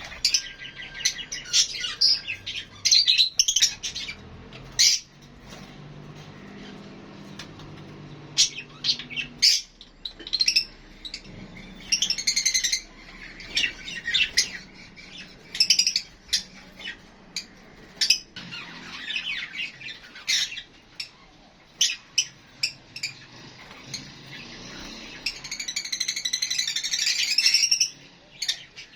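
Lovebirds calling: short, high-pitched chirps and squawks at irregular intervals, running together into a denser stretch of chattering near the end.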